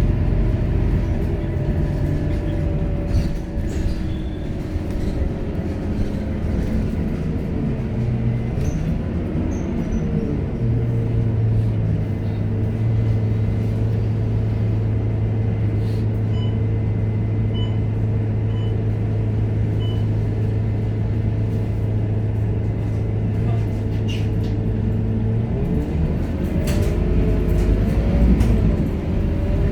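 Scania K230UB bus's diesel engine heard from inside the bus: it winds down in pitch and then runs at a steady low idle for about fifteen seconds, with four short high beeps in the middle. Near the end, the pitch rises again as the bus accelerates away.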